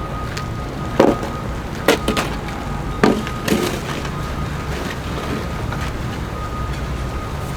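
Sharp knocks, about six at uneven intervals in the first few seconds, over a steady low rumble.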